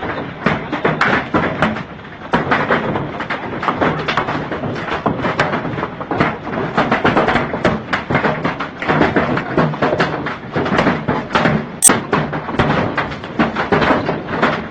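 Large hailstones pelting down: a dense, continuous clatter of hard impacts.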